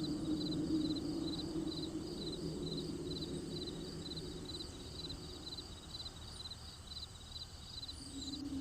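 Crickets chirping steadily at night, about two pulsed chirps a second. A low steady hum runs underneath; it fades away around the middle and comes back near the end.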